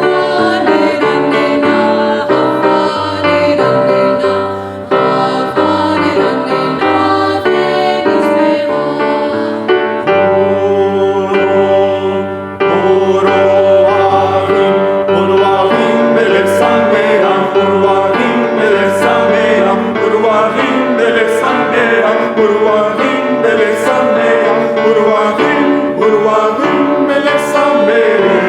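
A vocal ensemble singing in harmony with piano accompaniment, a steady bass line underneath; the music shifts to a fuller, busier texture about twelve seconds in.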